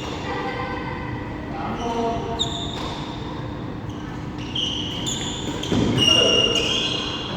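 Badminton rally in a large hall: shoes squeaking sharply on the court floor again and again, with racket strikes on the shuttlecock, the loudest squeaks about six seconds in.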